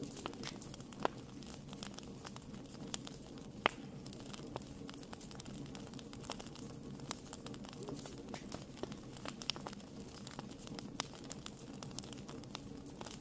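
Wood fire burning in a fireplace: a steady low rumble of flames with frequent small crackles and a few sharper pops, the loudest about a second in and near the four-second mark.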